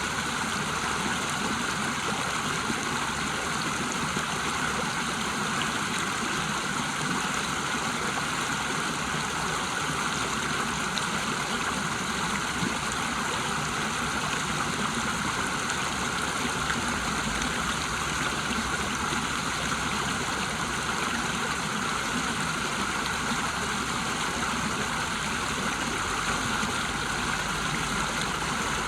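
River water rushing over a small waterfall: a steady, unbroken hiss of flowing water.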